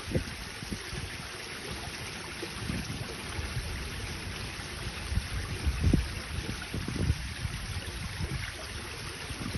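Running water with a steady rushing hiss, and irregular low thumps and splashes, the loudest about six seconds in.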